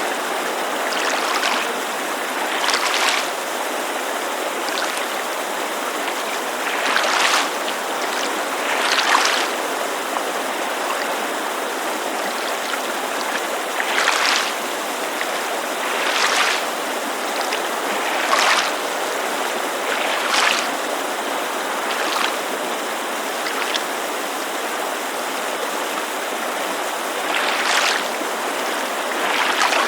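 Small waves lapping against a lakeshore in soft splashes every few seconds, over the steady rushing white noise of a mountain creek.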